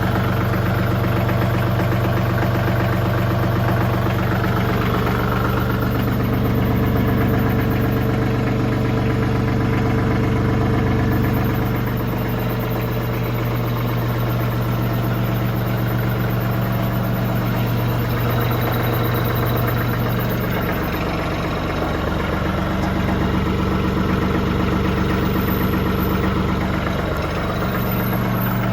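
TYM 2515h compact tractor's diesel engine idling steadily while it warms up after a cold start, with a slight change in its tone about two-thirds of the way through.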